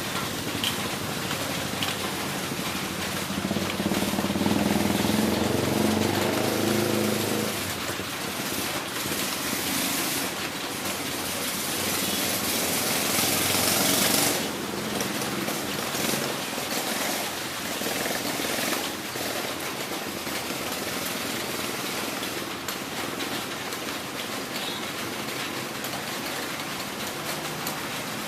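Heavy rain falling steadily. A low motor-like drone sounds through the rain from about four to seven seconds in, and the rain's hiss swells louder from about ten to fourteen seconds in.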